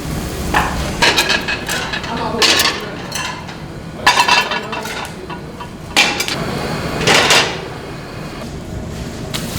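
Metal kitchenware clattering in about half a dozen separate bursts: pans, trays and utensils being handled and knocked together in a busy restaurant kitchen.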